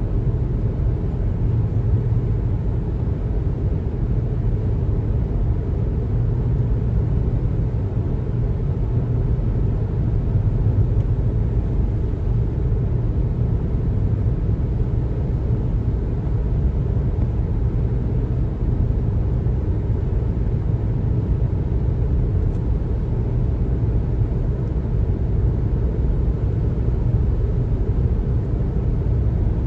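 Steady low rumble of a car driving at highway speed: tyre and road noise with the engine underneath, unchanging throughout.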